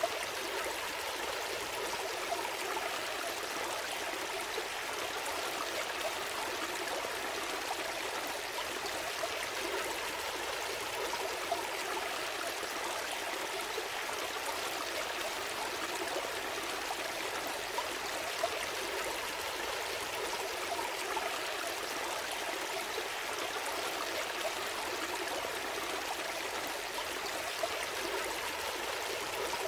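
A gentle stream flowing and trickling steadily, with small splashes and gurgles here and there.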